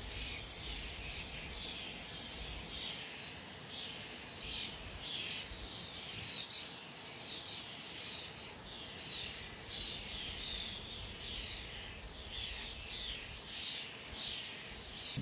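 Several small birds chirping and calling together, many short high notes overlapping without pause.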